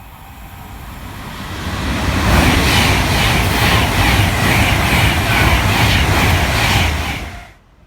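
A train passing at speed on the main line: its noise builds up, holds loud with a regular rhythmic clatter from the wheels, then cuts off suddenly near the end.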